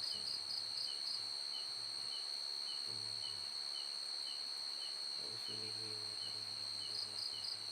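Night insects: a steady, high, unbroken cricket-like trill. A second insect adds quick pulsing chirps near the start and again near the end.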